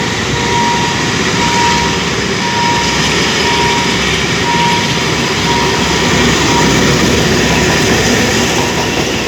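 A diesel-hauled passenger train runs past with steady rumbling rail and engine noise; the locomotive is an Alsthom diesel-electric, no. 4129, fitted with a Caterpillar engine. Over it a level-crossing warning signal beeps at about one beep a second, fading out about six seconds in.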